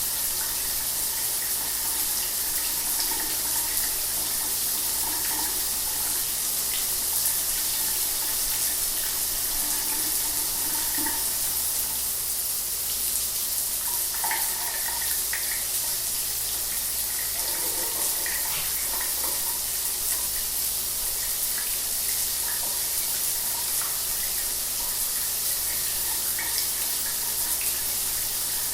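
Shower water running, a steady hiss of spray with small splashes scattered through it.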